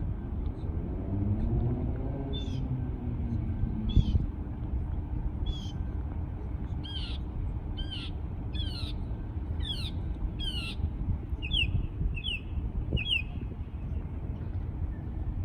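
A songbird singing a series of about eleven down-slurred whistled notes. The notes are spaced widely at first and come faster toward the end, over a steady low rumble.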